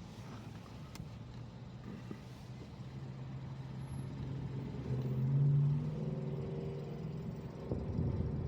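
A motor vehicle engine accelerating under steady road rumble. Its tone rises in pitch and gets louder up to about five and a half seconds in, then eases off.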